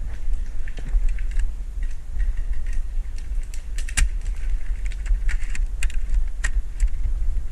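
Steady low wind rumble on the microphone, with scattered sharp clicks and light rattles, several of them clustered about halfway through.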